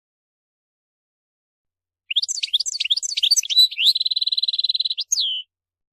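European goldfinch singing: after about two seconds of silence, a quick run of varied twittering notes, then a buzzy trill of about a second, and a closing falling note.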